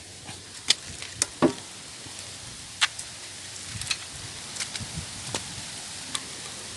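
Irregular sharp metallic clicks and taps of a wrench working the bolts of the oil strainer cover under an air-cooled diesel engine as it is being opened, over a faint steady hiss.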